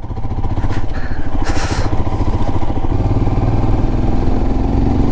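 Royal Enfield Himalayan's single-cylinder engine running as the motorcycle is ridden, its loudness building over the first second, with a brief hiss about one and a half seconds in.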